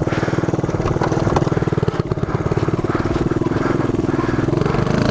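Mini bike engine running steadily under throttle, a rapid even firing beat at a fairly constant pitch.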